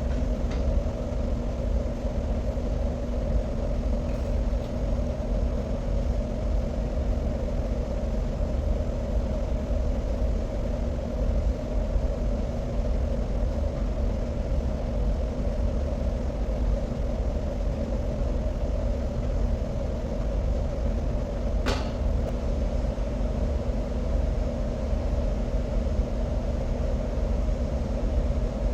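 Steady low rumble and hum of the underground hydroelectric powerhouse's machinery, unchanging throughout, with a single sharp click about 22 seconds in.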